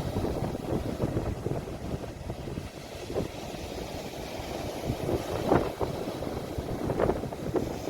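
Sea waves washing, with a steady low rumble of wind buffeting a phone's microphone and a few brief louder surges.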